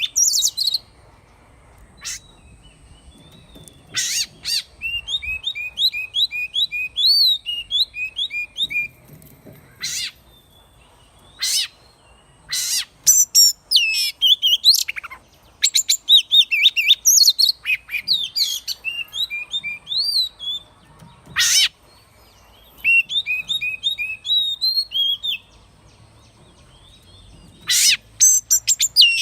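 Oriental magpie-robin singing: bouts of varied whistled phrases with swooping notes, including runs of quick repeated notes and sharp harsh notes, separated by short pauses.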